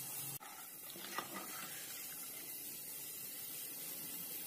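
Peanuts frying in oil in a nonstick pan over a low gas flame: a faint, steady sizzle, with one light click about a second in.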